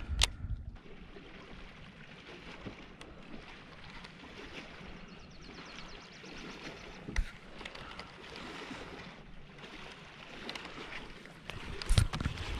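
Water lapping and sloshing around a fishing kayak, with a few sharp knocks against the hull: one just after the start, one about seven seconds in, and a louder cluster near the end.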